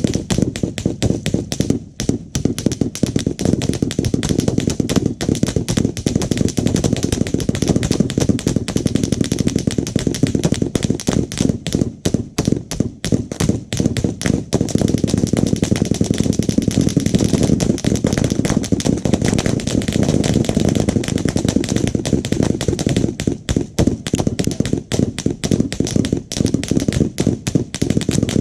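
Rapid, dense gunfire from many guns at once, shots overlapping almost without a break.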